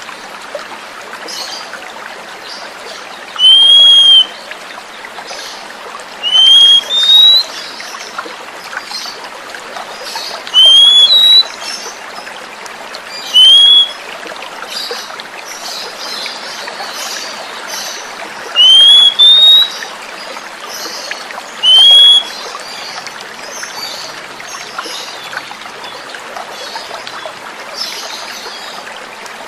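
Oriental magpie-robin (kacer) giving loud, short arching whistles, about eight in all, some in pairs, every few seconds. They sound over a steady trickle of running water.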